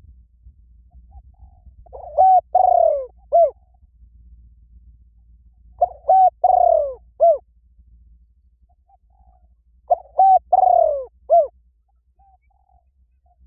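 A dove cooing: three phrases about four seconds apart, each a quick run of low hooting notes with one longer falling coo.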